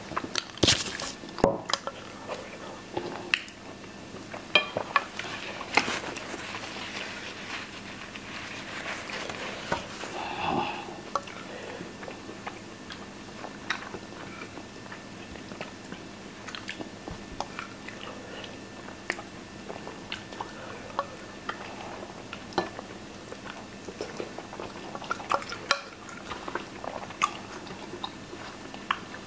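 Close-miked chewing and biting of baked beans, sausage and bread, with scattered sharp clicks of forks against plates.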